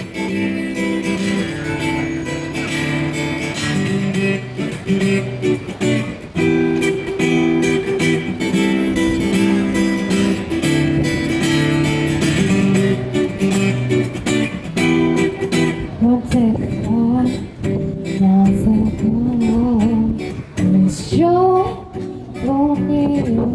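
Acoustic guitar strummed in a steady rhythm as a song's intro. A woman's singing voice comes in about two-thirds of the way through, over the guitar.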